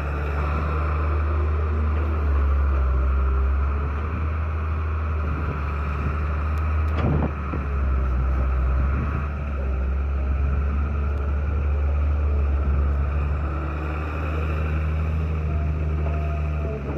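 Heavy diesel engine running steadily with a deep low drone, the load shifting slightly now and then, and a single sharp click about seven seconds in.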